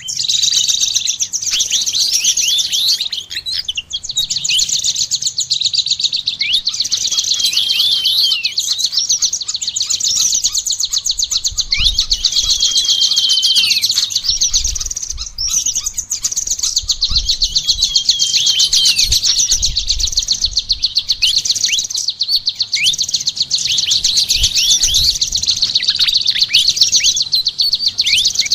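Songbirds singing without a break in a dense, high-pitched twitter: rapid trills mixed with many short downward-sweeping notes, led by a kolibri ninja (sunbird) among other songbirds.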